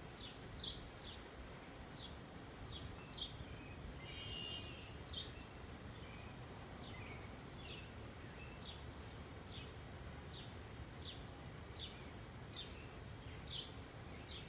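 A small bird chirping over and over, short high chirps about once or twice a second, with one longer, different call about four seconds in. Underneath runs a steady low outdoor rumble.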